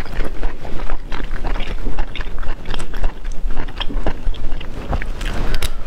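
A person biting and chewing raw surf clam sashimi close to the microphone. The mouth sounds come as a dense run of small irregular clicks and smacks.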